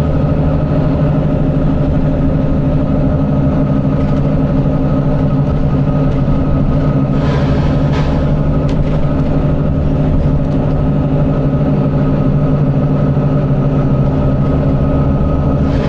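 Volvo B9TL bus's six-cylinder diesel engine running at a steady pitch, with a short hiss of air about seven seconds in.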